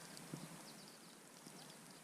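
Near silence: faint outdoor background hiss with a few soft clicks and faint, short, high chirps.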